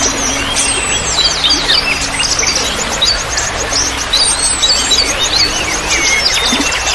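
Many small songbirds chirping and calling in quick, overlapping notes over steady trickling water. A low steady tone runs underneath.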